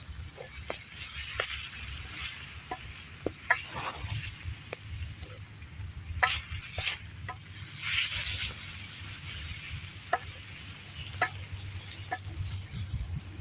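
Meat and spices in a wok over a campfire being stirred as they fry, with a steady sizzle and scattered sharp clicks and scrapes of the utensil against the pan.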